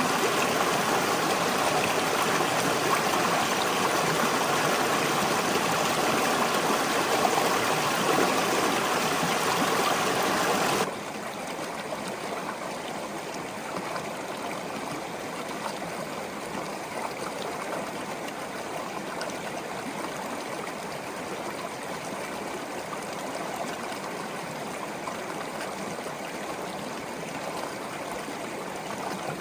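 Small stream flowing with a steady rush of water; about eleven seconds in it cuts suddenly to a quieter, thinner flow that then continues evenly.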